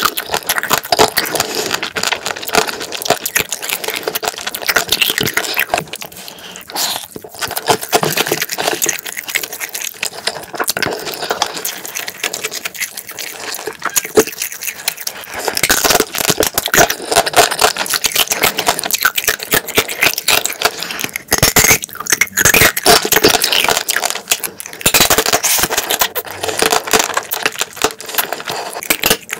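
Close-miked chewing and wet sucking of spicy marinated raw crab (yangnyeom gejang), a dense run of sticky mouth clicks and smacks, quieter for a few seconds in the middle.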